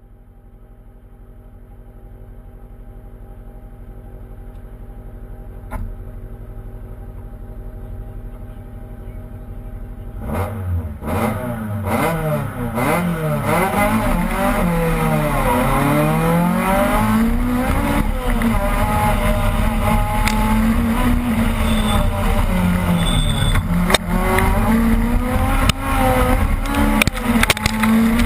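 Opel Kadett rally car's engine heard from onboard: it runs at a steady note for about ten seconds, then the car launches and the engine revs hard through the gears, its pitch climbing and dropping at each shift.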